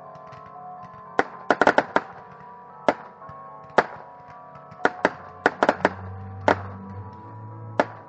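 Fireworks going off in sharp, loud reports at irregular intervals, some in quick clusters of three or four, over music with long held notes.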